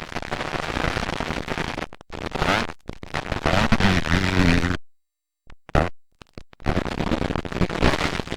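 Motocross dirt bike engines running and revving, loud and rough on a camcorder microphone, with the pitch rising and falling. The sound is chopped into short stretches by sudden silent gaps several times.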